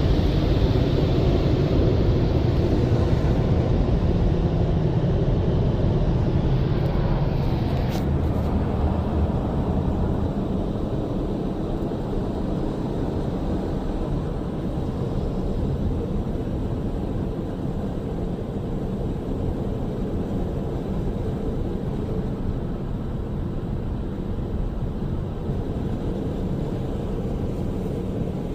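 Istobal M'Wash 3 car wash air dryers (contour top dryer and side dryers) blowing on the car, heard from inside the car as a steady rushing of air and fan motors. It eases a little about ten seconds in.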